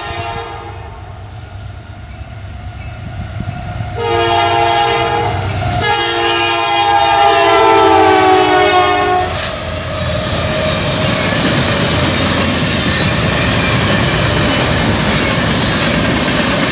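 Train locomotive horn blowing for a grade crossing: a blast that ends just as the sound begins, then a long blast about four seconds in and another long one that drops in pitch as the locomotive goes by. After that comes the steady rumble and clatter of the train's wheels passing on the rails.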